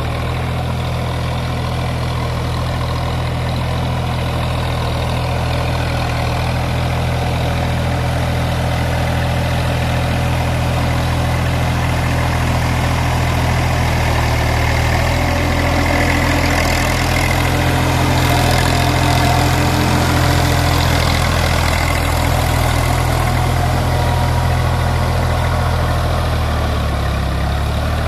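Massey Ferguson tractor's diesel engine running at a steady speed, getting a little louder around the middle.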